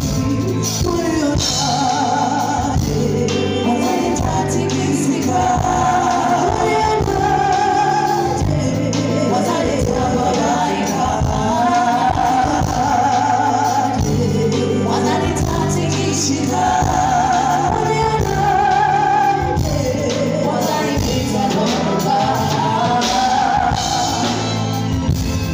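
Live band music with a singer: steady bass and drums under long sung lines that waver with vibrato.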